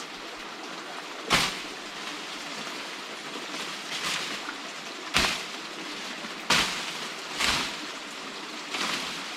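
River water rushing steadily, with five short, sharp sounds at uneven intervals over it.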